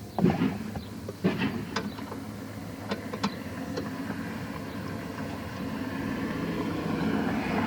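Several sharp clicks and knocks of hand work on the car's trim, the first the loudest, over a steady engine hum that grows louder toward the end.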